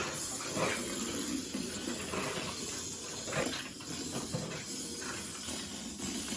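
Small RC cars running, a steady hissing whir of their electric motors and wheels with faint brief rises.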